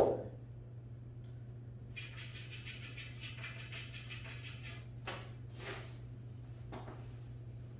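A pool cue strikes the cue ball with a sharp clack. About two seconds later a rasping hiss with a fine flutter lasts for roughly three seconds, the cue ball spinning in place on the cloth, followed by a few soft brushing sounds. A steady low hum runs underneath.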